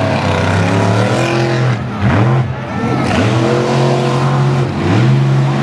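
Monster truck engine running at high revs, its pitch dropping when the throttle is lifted and sweeping back up when it is reapplied, a couple of times.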